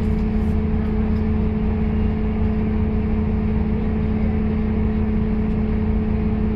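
Scania K230UB city bus heard from inside the passenger cabin, its engine and drivetrain running at a constant speed with a steady low hum and an even, unchanging tone. A few faint light clicks come right at the start.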